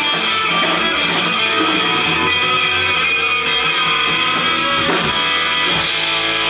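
Live rock band playing an instrumental passage, led by strummed electric guitars, with a couple of sharp crashes near the end.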